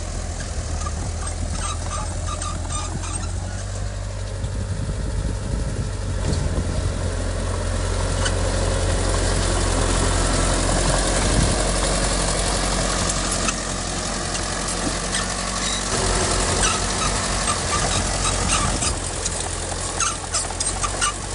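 Diesel engine of heavy earthmoving machinery running, growing louder about eight seconds in, with scattered high squeaks and clanks.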